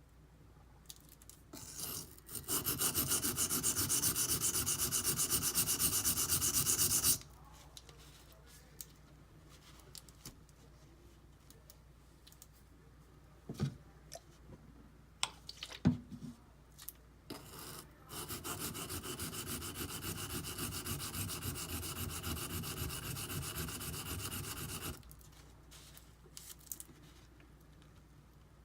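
Knife blade of D2 steel ground back and forth on a coarse silicon carbide benchstone in quick, even scrubbing strokes, working the choil area down to the apex. It comes in two spells, the first louder, with a few clicks and knocks of handling between them.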